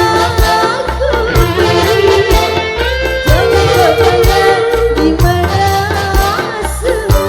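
Live dangdut band music: a wavering melody line over a steady beat of hand drums and bass.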